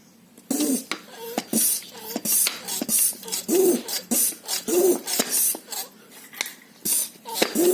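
High-pressure hand pump being worked to fill a PCP air-rifle tank, a hiss of air with each stroke in a steady rhythm of about one stroke a second, starting about half a second in.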